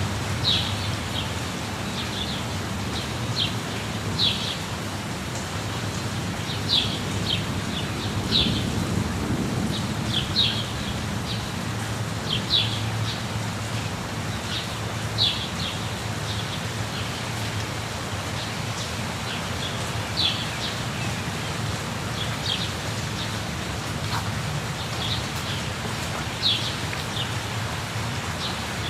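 Steady rush of a waterfall with birds chirping over it: short high calls repeated every second or two.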